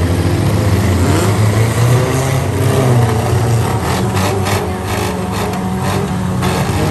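Several stock compact cars' engines revving and running together in a demolition derby, rising and falling in pitch. A run of sharp knocks and clatter comes from about two and a half to six and a half seconds in.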